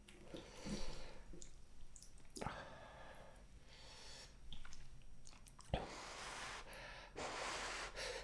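Close-miked chewing and wet, squishy mouth sounds of someone eating cheese-covered braised chicken, broken by two sharp clicks, with a longer noisy stretch near the end.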